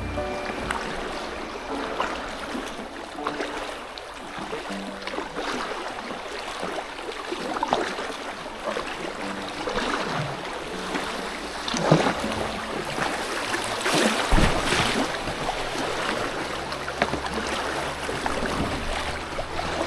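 Paddling a packraft on a river: water splashing and burbling around the boat, with irregular sharper splashes of paddle strokes, the strongest about twelve and fourteen seconds in.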